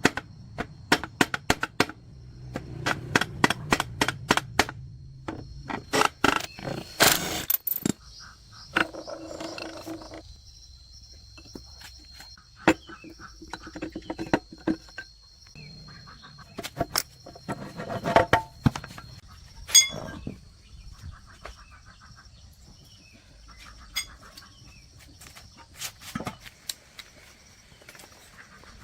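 Sharp metallic taps and clinks of hand work on engine parts: a quick, regular run of taps in the first seven seconds, then scattered knocks, with a faint steady high tone through the middle.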